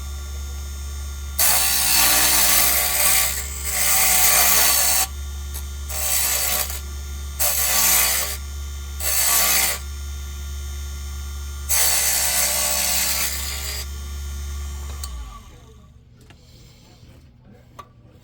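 Small wood lathe running with a steady motor hum while a chisel cuts into the spinning wooden lure blanks in about six separate scraping passes, each a second or two long. The motor shuts off and the hum stops about three seconds before the end.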